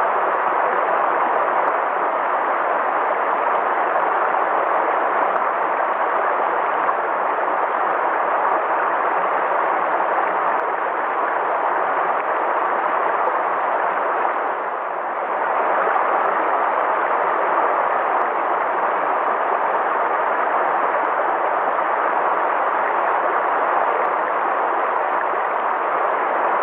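River water flowing in a steady, even rush, dipping slightly for about a second halfway through.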